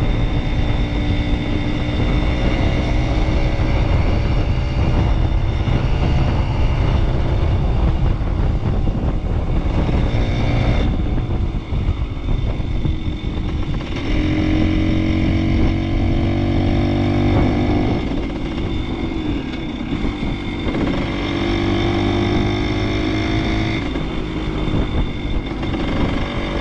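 Kawasaki KS125 two-stroke single being ridden, heard over heavy wind noise on the microphone. The engine note climbs repeatedly and drops off at each shift as the bike accelerates up through its gears.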